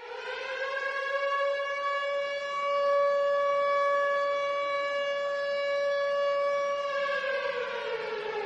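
A siren sounding one steady tone, then slowly falling in pitch near the end as it winds down.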